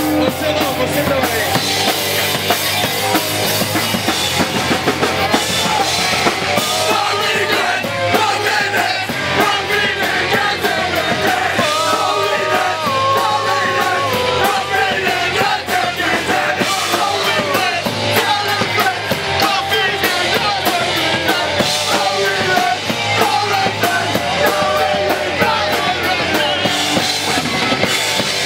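Live punk rock band playing loud and fast, with drum kit, distorted guitars and shouted vocals. The song ends abruptly at the close.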